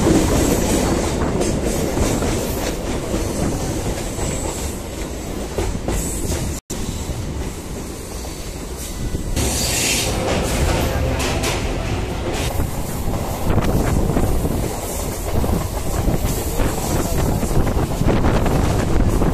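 Electric suburban local train running on the rails, wheels clattering over the track, with a brief high-pitched screech or hiss about ten seconds in.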